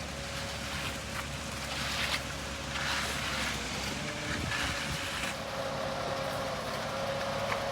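Concrete mixer truck running steadily with a constant whine, at the start of the slab pour's first load, with short hissing rushes coming and going over it.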